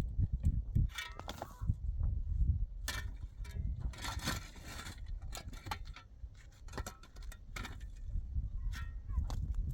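Irregular clinks, knocks and scraping of objects being handled, with a longer scrape about four seconds in, over a low rumble.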